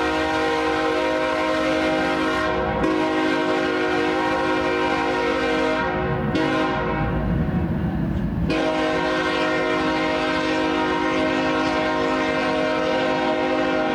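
Air horn of a CSX GE ES44AH diesel locomotive sounding a long, steady chord. Its higher notes break up for a couple of seconds a little past halfway under low rumbling, then the chord sounds steadily again.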